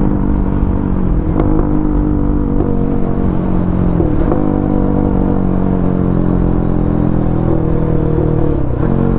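Bajaj Pulsar NS200's single-cylinder engine running through a loud aftermarket exhaust under way, its pitch dipping and climbing back several times.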